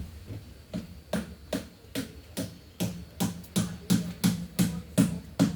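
Quick, regular footsteps on a hard surface, about two and a half steps a second, growing louder as they come closer.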